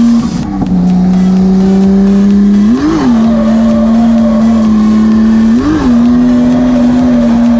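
Nissan 180SX drift car's engine held high in the revs at a steady pitch, heard from inside the cabin, with two quick rev blips, about three seconds and about six seconds in.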